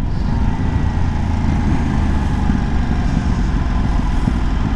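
Aprilia 660 parallel-twin motorcycle engine running at steady revs while riding, heard through a helmet-mounted microphone with wind noise.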